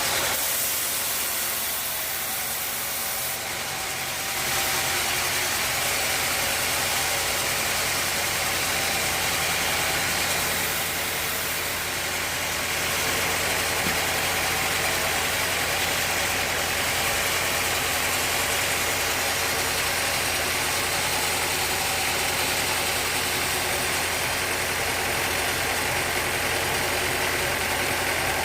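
Sawmill machinery running steadily: a constant low engine hum under an even hiss.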